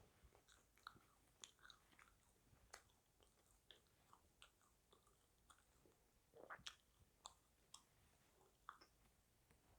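A person chewing fast food close to the microphone: many small irregular crackly clicks and wet smacks, faint overall, with a louder cluster about six and a half seconds in.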